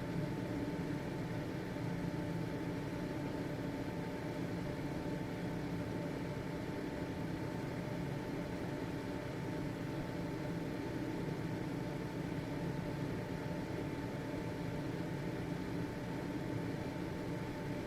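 Household ventilation fan running steadily: an even motor hum with a few steady tones over a soft whoosh of air, unchanging throughout.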